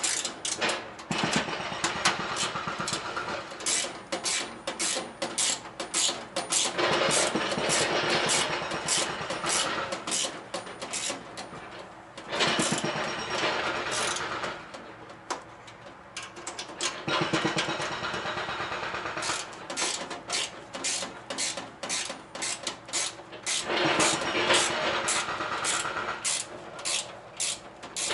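Hand tools and a power tool working on metal: several bursts of motor noise a few seconds long with rapid clicking between them.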